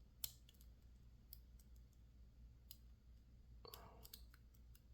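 Faint, sparse clicks of a lock pick working the pin stack of a PacLock 410 Pro padlock under light tension, jiggling pin 1 to test whether it is set. One slightly louder click comes about a quarter second in, and a small run of clicks near the end.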